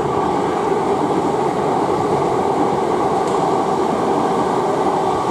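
South Western Railway Class 455 electric multiple unit running past, a loud steady rumble of wheels on track.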